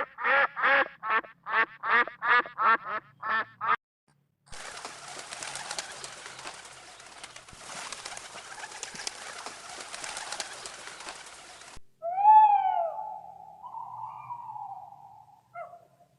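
Animal calls: a fast run of about a dozen short pitched calls, then several seconds of even rushing noise, then a long wavering call that starts with a sharp rise and fall.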